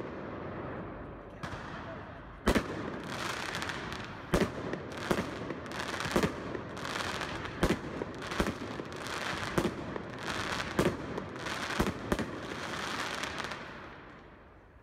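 Fireworks display: sharp bangs of bursting shells, roughly one every half second to a second, over a continuous crackle, dying away near the end.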